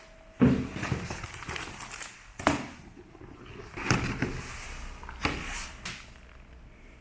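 Irregular rattling knocks, about five over several seconds, each with a short rumbling tail: typical of a loose fitting or door rattling in strong wind gusts.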